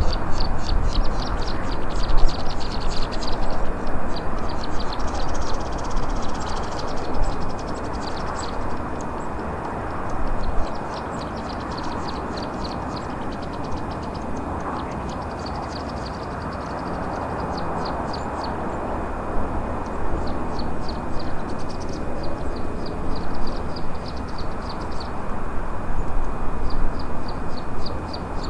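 Steady car road and engine noise heard from inside the cabin through a dash cam, with runs of rapid high-pitched chirping that come and go every few seconds.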